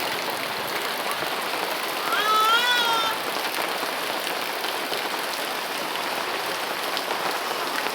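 Heavy rain pouring steadily, with a brief high-pitched wavering cry about two seconds in.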